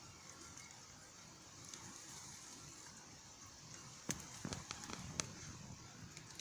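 Faint outdoor background with a steady high hiss, and a short run of light clicks and taps about four to five seconds in.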